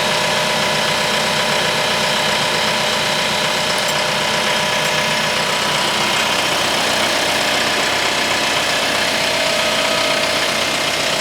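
TYM T754 tractor's diesel engine running steadily.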